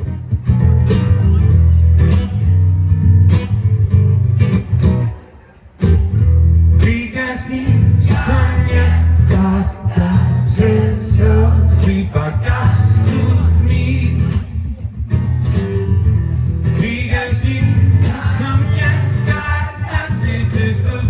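Acoustic guitar played live, strumming chords. It stops briefly about five seconds in, then resumes with a melody over the chords.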